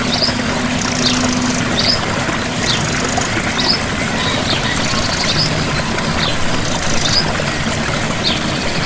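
Steady rush of a gentle waterfall, with a bird's short high chirps repeating about once a second over it.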